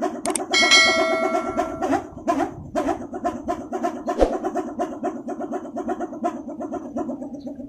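Balinese pindekan, a wind-driven wooden clapper, knocking in a rapid, even rattle of hollow wooden strikes, with a brief high ringing tone over it about a second in. The knocking fades near the end.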